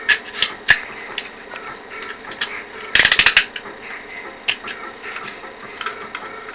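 Plastic Beyblade launcher gear ratcheting as a ripcord is run through it: a quick run of ratchet clicks about three seconds in, with scattered single plastic clicks of handling around it.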